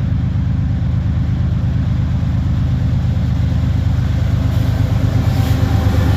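Two diesel-electric freight locomotives passing close by, their engines giving a steady low rumble that grows slightly louder.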